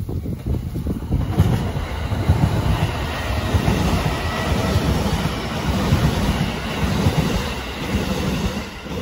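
JR East E233 series electric commuter train passing close by at speed: a dense rumble and rattle of wheels on rail that swells about a second in and stays strong as the cars go by.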